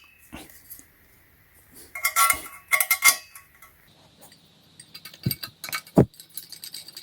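Small metal assembly screws and hardware clinking and jingling as they are handled, with a burst of ringing clinks about two seconds in, then scattered ticks and two dull knocks near the end.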